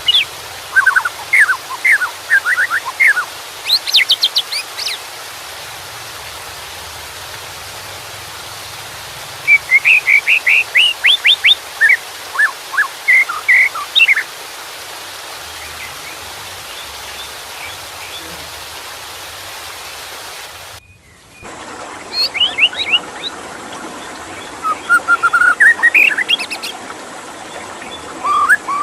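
White-rumped shama singing in bouts of varied, quick whistled phrases, with pauses of several seconds between bouts, over a steady rush of running water.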